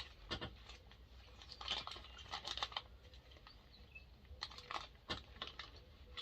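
Faint crinkling of a plastic bag as small parts are put into it, with scattered light clicks of the parts.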